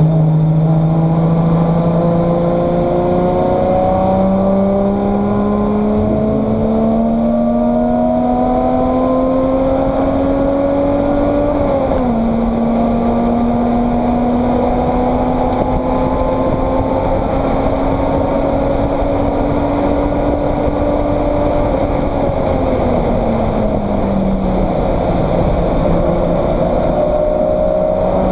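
Race car engine heard from inside the stripped cabin, pulling hard with its pitch slowly climbing, then dropping sharply about twelve seconds in as it shifts up. It climbs again, then the pitch falls over a couple of seconds as the car eases off, and it runs steady near the end.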